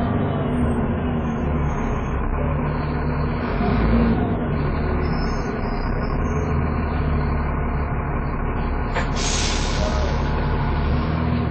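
Dennis Trident 2 double-decker bus engine running under load, with the steady whine that enthusiasts call a "hoover". Its pitch falls slightly at first. About nine seconds in there is a short hiss of compressed air.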